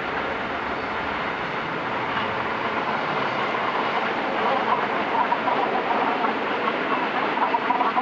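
Rhaetian Railway train running on the track, its wheel and rail noise growing louder and more uneven as it comes closer.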